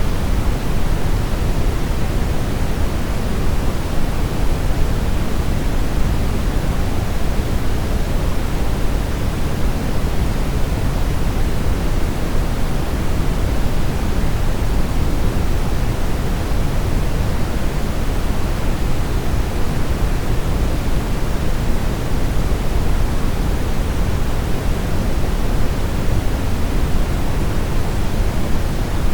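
Steady brown noise: a continuous, even deep hiss with most of its weight in the low end, unchanging throughout.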